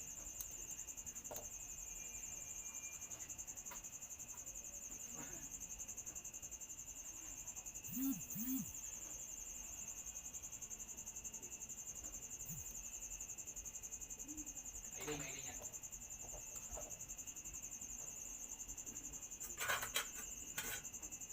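Crickets trilling steadily and high-pitched throughout, with a few brief faint knocks, one about two-thirds of a second long near the middle and a cluster near the end.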